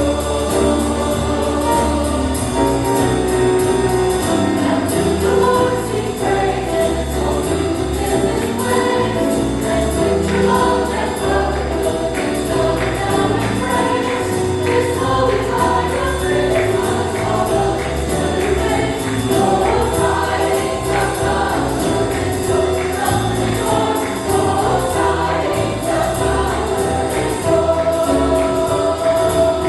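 Church choir singing a jazz-style Christmas song with instrumental accompaniment.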